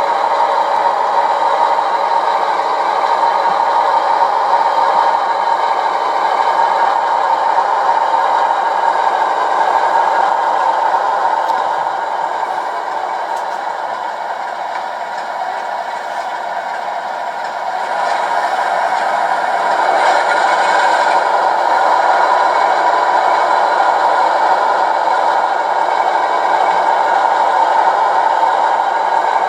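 OO-scale model locomotive running on the layout track, a steady mechanical whir with rattling. It drops somewhat quieter near the middle, then comes back up to full level.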